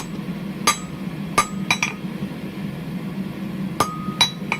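Hammer blows on hot steel against an anvil, each strike giving a short metallic ring, as a thin section of a forged leaf is drawn out. The strikes come in two irregular groups of three or four, with a pause of about two seconds between them, over a steady low hum.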